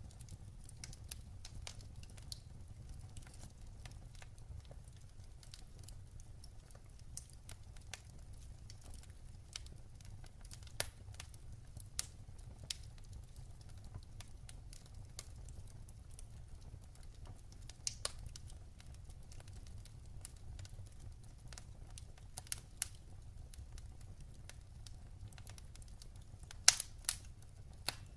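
Firewood burning in a fireplace: a steady low rumble with scattered crackles and sharp pops from the logs, a quick cluster of louder pops near the end.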